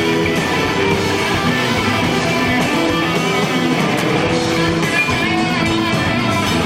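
Live rock band playing an instrumental passage: loud, steady electric guitar riffing over the band, with no singing.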